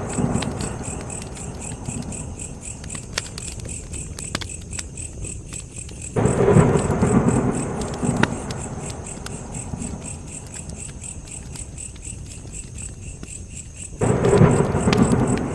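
Campfire burning with scattered sharp crackles and pops, and a low rumbling surge that starts suddenly twice, about six seconds in and near the end, each fading over several seconds. A steady high-pitched pulsing chirr runs underneath.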